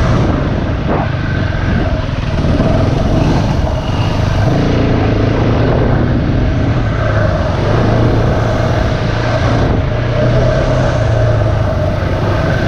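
Single-cylinder four-stroke dirt bike engine running under way on a trail, its pitch shifting a little with the throttle, mixed with rushing noise from the ride.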